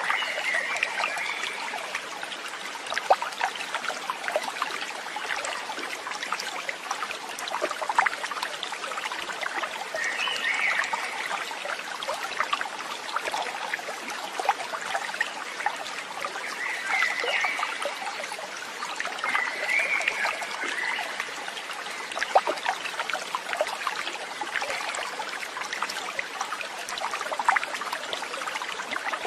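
Stream water trickling and babbling steadily, with many small splashes. Short high chirps come four times: at the start, about ten seconds in, and twice around seventeen to twenty seconds.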